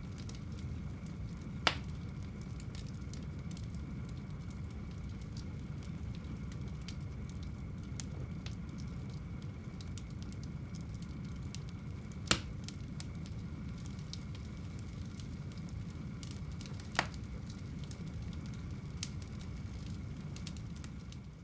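Fire burning in a home fireplace: a steady low rumble with fine crackling, and three sharp pops, the loudest about twelve seconds in.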